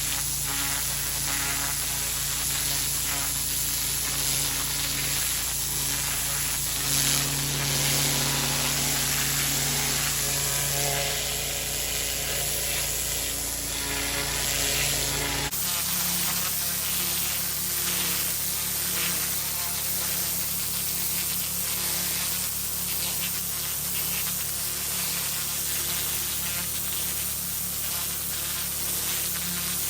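Pressure washer spraying water onto block paving: a steady hiss of the jet over the constant hum of the machine's engine, changing abruptly about halfway through.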